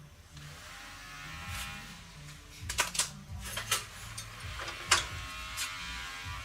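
Scattered sharp clicks and clinks of small metal parts and hand tools being handled, a handful of them, over quiet background music.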